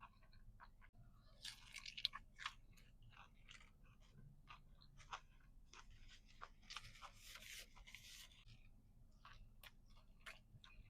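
Quiet, close-miked mouth sounds of a person biting into and chewing crunchy fried fast food, with wet clicks throughout and two louder spells of crunching, about a second and a half in and again around seven seconds in.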